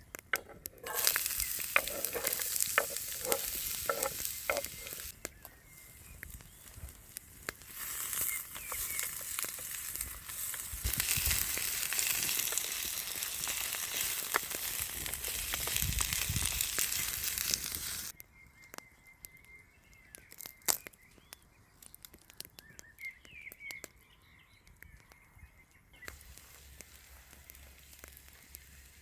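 Food sizzling as it fries, a loud steady hiss with scattered pops, broken by a short lull and stopping abruptly a little past halfway. The rest is much quieter, with only faint clicks and crackles.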